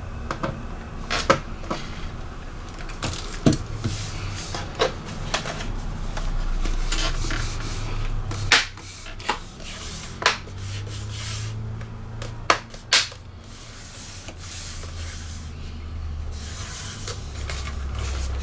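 Scattered plastic clicks and knocks from a laptop's case and parts being handled, irregular and of uneven loudness, over a low steady hum.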